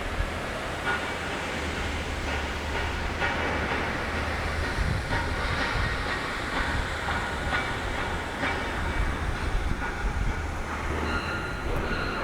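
Steady industrial machinery noise from a furnace factory: a constant low hum under a dense mechanical din, with scattered metallic clanks.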